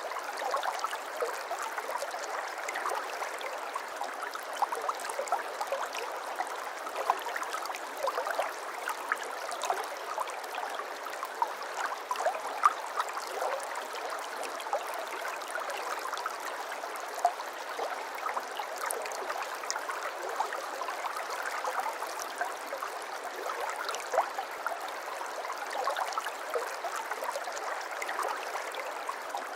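A small stream of water flowing steadily and babbling, with many little splashes and gurgles scattered through it.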